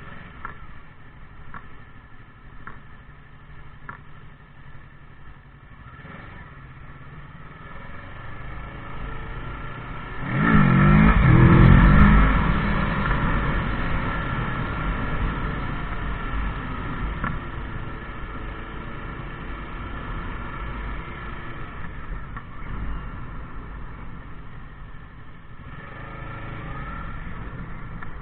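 Motorcycle engine running during a ride. About ten seconds in it revs up loudly with a rising pitch, then eases back to a steadier run.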